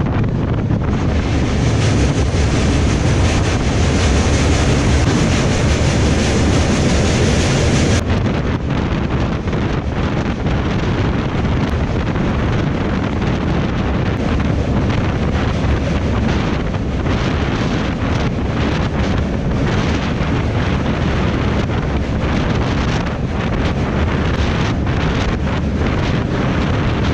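Wind buffeting the microphone over the steady rumble of a moving express train. The sound changes abruptly about eight seconds in, with short gusts after that.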